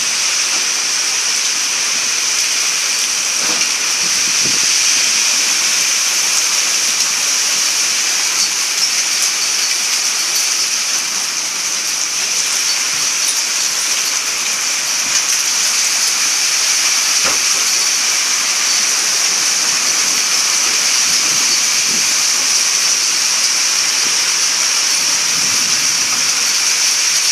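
Torrential rain pouring down in a loud, steady, even hiss, with a couple of faint knocks.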